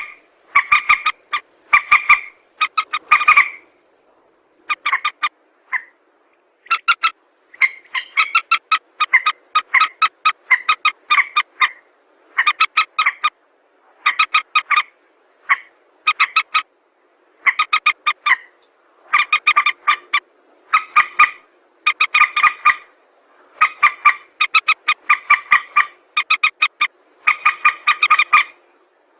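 Recorded lure call of a mandar (a rail or moorhen-type waterbird): rapid series of pulsed notes in bursts of about half a second to a second, repeating with short gaps.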